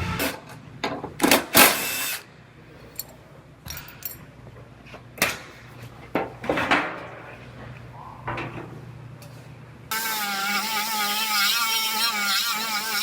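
A few short bursts of a power drill, then scattered clicks and knocks of hand tools on sheet metal. About ten seconds in, a steady whine with a wavering pitch takes over abruptly.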